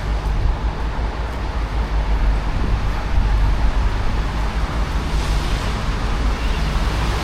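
Road traffic running steadily close by on the bridge, with a vehicle swelling past about five seconds in.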